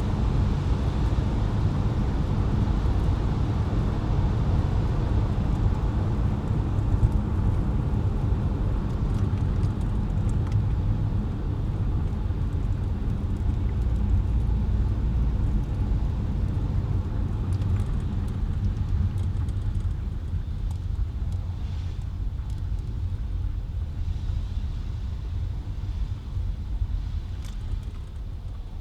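Car driving on wet, slushy city roads: a steady low road and engine rumble that grows quieter over the last several seconds.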